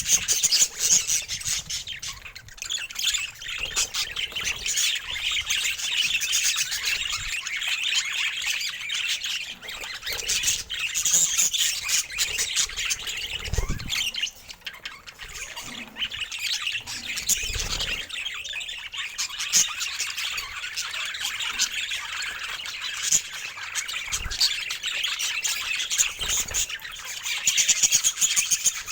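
Pet budgerigars chirping and chattering, a dense, continuous stream of short high calls.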